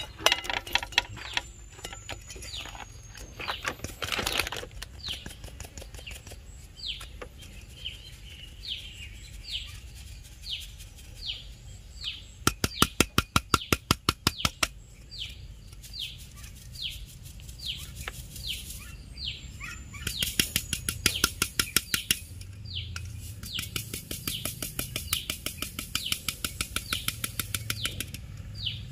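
A bird calling steadily with short, high, downward-sweeping chirps, one every half to three-quarters of a second. Three bouts of rapid ticking, about ten a second, come in with it: about twelve seconds in, again around twenty seconds, and again from about twenty-three seconds to near the end.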